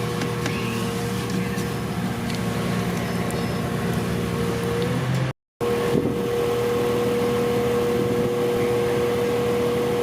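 Interior running noise of a Class 4000 diesel multiple unit: a steady engine and machinery hum with a held whine. The sound drops out completely for a moment just past halfway, then resumes.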